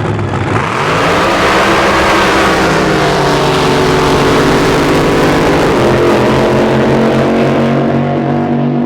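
Racing drag boat's engine at full throttle, loud and close. Its pitch climbs about half a second in, then slowly drops and settles as the boat runs down the course.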